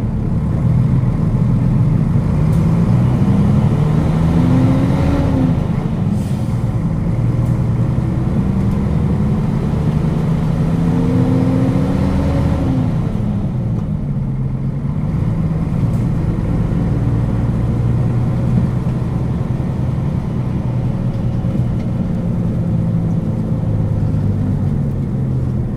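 Diesel engine of a KL-UA452KAN city bus pulling away. Its pitch climbs and drops twice as it shifts up, then it runs steadily at cruising speed.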